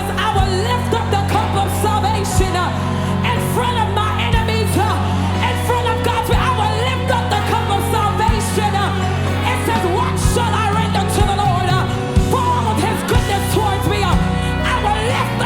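Live Haitian gospel worship band playing, with voices singing and wailing over held chords and a steady bass; low drum hits land about every two seconds.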